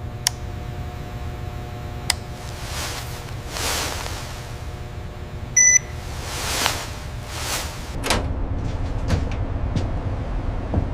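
A steady low mechanical hum, with a few sharp clicks and a short electronic beep about halfway through.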